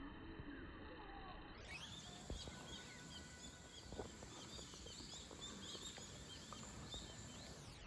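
Faint outdoor ambience full of many short, high bird chirps and twitters, with a couple of soft knocks.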